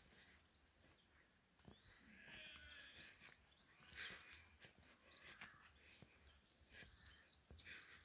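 Faint rural outdoor ambience with scattered bird calls and a few soft clicks.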